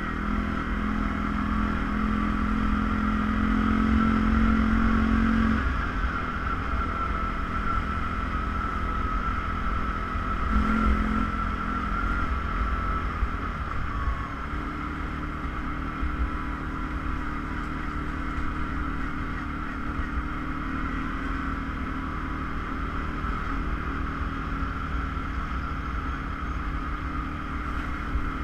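ATV engine running steadily under way, its note shifting a couple of times as the throttle changes.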